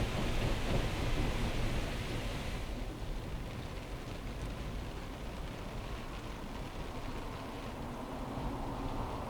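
Automatic car wash machine running, with water spraying onto a car over a steady low rumble. The hiss of the spray stops about three seconds in, leaving the rumble of the machine.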